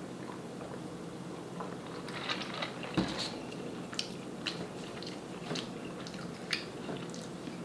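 Close-up eating sounds: bites and wet, crackly chewing of corn on the cob, with one heavier knock about 3 seconds in.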